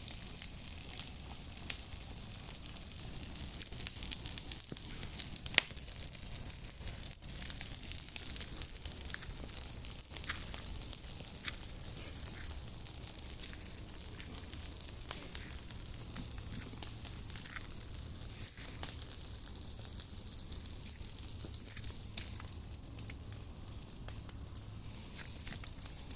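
Campfire burning with a steady hiss and frequent sharp crackles and pops of the burning wood.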